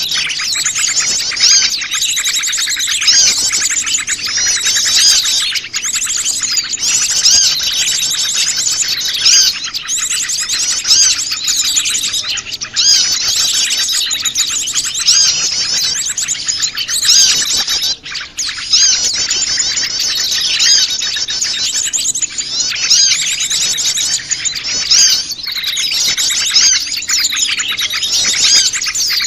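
A dense chorus of many small wild birds chirping and twittering at once, calls overlapping without pause: a mixed small-bird lure recording.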